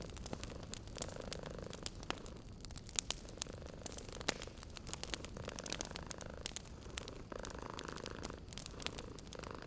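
A cat purring, swelling and easing about every two seconds, over a wood fire crackling with frequent small sharp pops.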